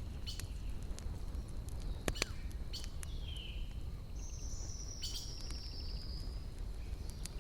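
Campfire burning with a steady low rumble and scattered sharp crackles and pops of wood. A bird calls over it: a short falling whistle about three seconds in, then a long high, slightly falling call lasting about two seconds.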